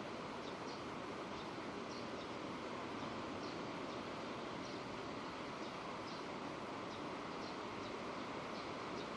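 Steady rain falling, an even hiss, with faint high ticks recurring every half second or so.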